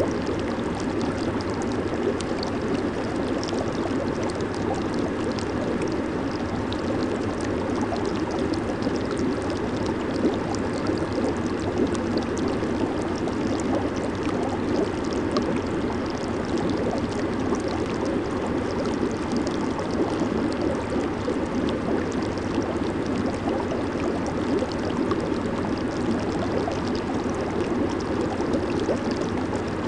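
Jacuzzi water churning steadily: a continuous rushing noise, fullest in its lower range, with a fine crackle of bubbles over it.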